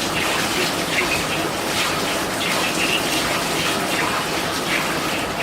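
A steady rushing noise, even and unbroken, with faint higher sounds coming and going.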